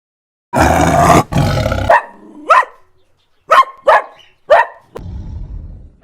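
Animal calls: two rough, noisy calls in quick succession, then four short calls that each rise and fall quickly in pitch.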